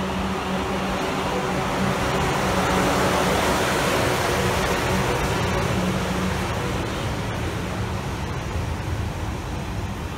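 Class 444 Desiro electric multiple unit running into the platform, its wheels rumbling on the rails under a steady electric motor hum. The sound grows louder over the first few seconds as the carriages pass close, then slowly eases.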